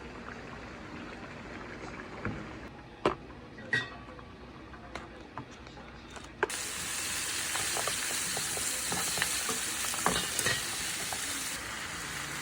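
Kitchen sounds while cooking: a few sharp clinks and knocks of utensils and dishes, then a loud steady hiss that starts suddenly about halfway through and drops in level near the end.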